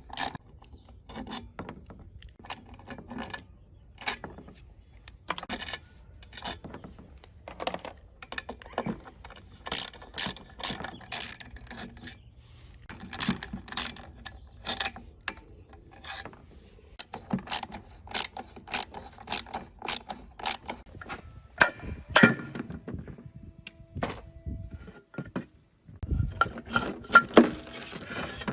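Metal clicking and clinking from hand-tool work on an old concrete cutter: short runs of sharp clicks, several a second, with brief pauses between them. A couple of duller knocks come near the end.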